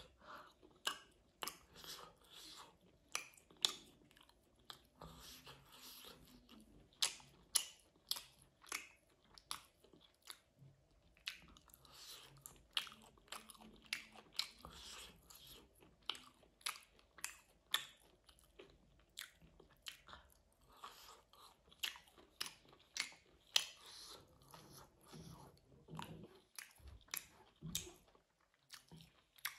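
A person chewing food with the mouth open: a steady run of wet smacks and crunches, about two to three sharp clicks a second.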